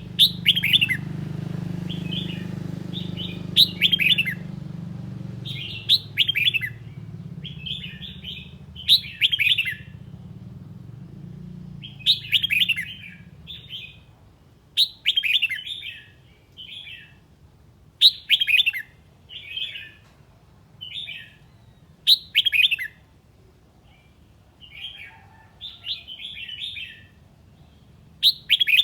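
Red-whiskered bulbul singing: short, bright warbled phrases repeated every second or two, each starting with a sharp high note. A low steady hum sits underneath and fades out about halfway through.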